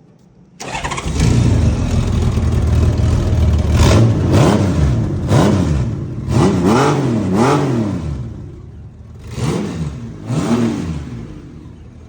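Honda Gold Wing motorcycle engine heard through its exhaust. It comes in about half a second in and runs steadily, then is blipped up and down five times in quick succession, settles, and is revved twice more before falling back to idle.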